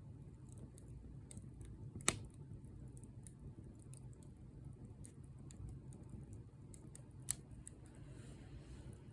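Bonfire crackling: scattered small pops, with two sharp louder pops about two seconds in and near the end, over a low steady rumble.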